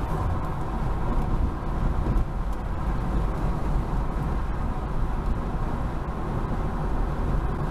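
A car driving, with steady road and engine rumble and no distinct events.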